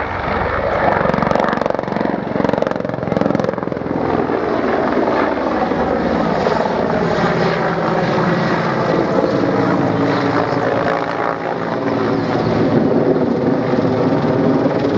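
Mi-35 Hind attack helicopter flying a display, its engines and rotor running loudly and steadily.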